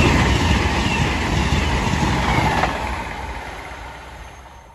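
A CrossCountry Voyager diesel multiple unit on the Edinburgh–Plymouth service passing at speed, its engine and wheel noise loudest at first and then fading steadily away.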